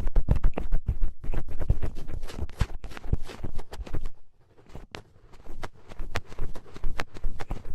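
Ear pick scraping earwax in the ear canal: rapid close-up crackling and scratching clicks, broken by a short quieter pause a little past halfway.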